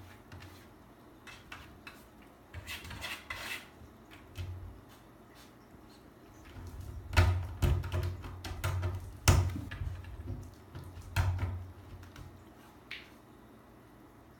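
Irregular knocking and rattling: a brief rattle, then a cluster of sharp knocks with dull low thumps, then a last knock and a faint click near the end.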